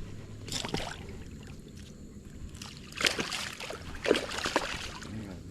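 Water splashing and sloshing in three short bursts as a common carp is handled in shallow river water.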